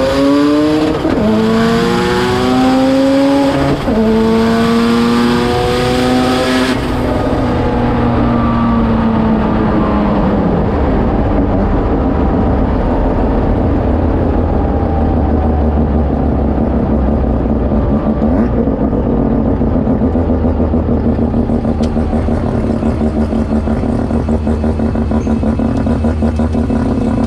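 Turbocharged Mazda RX-7 drag car engine at full throttle, heard from inside the cabin, revving up through the gears with two upshifts in the first four seconds. About seven seconds in the throttle comes off at the end of the pass, the revs fall away, and the engine runs on at a steady low speed as the car rolls out.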